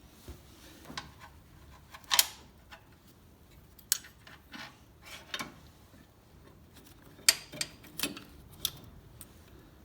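Throttle cable and its sheath being fed out through the tractor's firewall: scattered light metallic clicks, taps and scrapes, with a few sharper knocks about 2 seconds in and around 7 to 9 seconds in.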